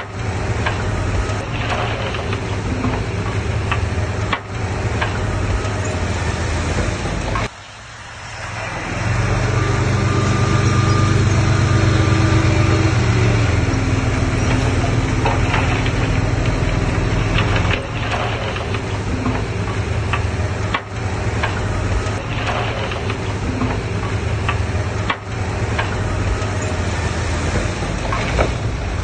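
Diesel engines of earthmoving machinery running with a knocking clatter. About seven and a half seconds in the sound breaks off, then returns louder and higher for about four seconds before stepping back down to a steady run.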